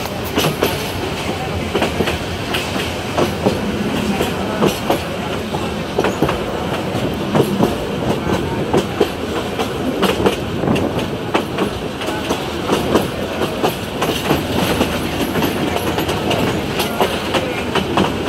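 Passenger express train running past on curved track, its wheels clacking over the rail joints: a steady rumble broken by frequent, irregular sharp knocks.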